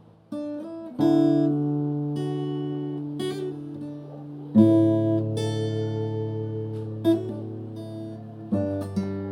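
Background music on acoustic guitar: ringing chords strummed about every three and a half seconds, with a few picked notes between them.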